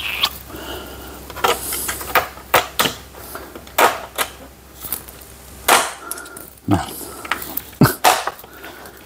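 Metal hand tools and bits clinking and knocking as they are picked through and handled, a series of irregular sharp clicks and clatters.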